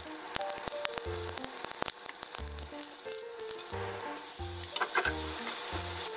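Nagaimo (Chinese yam) cubes sizzling in a hot nonstick frying pan, with wooden chopsticks clicking against the pan as they stir. About four seconds in, soy sauce hits the hot pan and the sizzle grows brighter and louder. A gentle tune of background music plays along.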